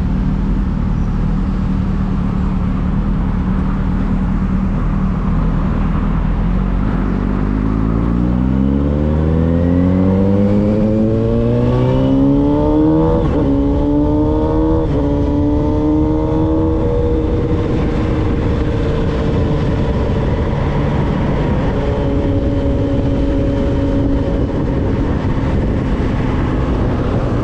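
Honda Hornet's carburetted inline-four engine, fitted with an aftermarket exhaust, pulling away on the ride: it runs steadily at first, then climbs in pitch for several seconds, dips briefly twice as gears are shifted, and settles into a steady cruise.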